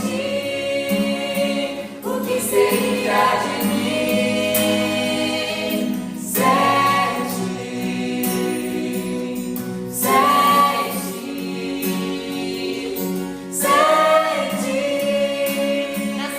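Gospel choir singing in harmony, long held notes in phrases that begin about every three and a half seconds.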